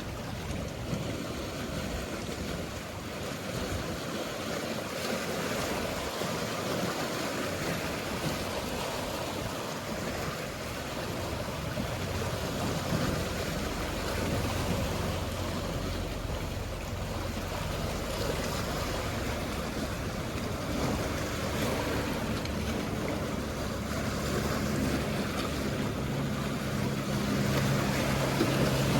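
Mediterranean sea waves washing steadily, with a boat's engine hum coming in about halfway through and growing louder toward the end as the boat approaches.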